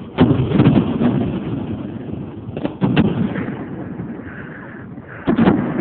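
Aerial firework shells bursting: clusters of sharp bangs near the start, about three seconds in and just after five seconds, each trailing off in a low rumble.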